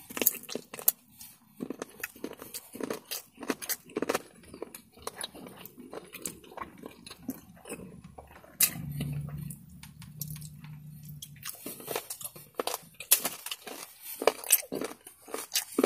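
Close-up mouth sounds of a person biting and chewing battered fried chicken: a string of wet crunches and smacks. Near the middle the chewing quiets and a low steady hum runs for about three seconds.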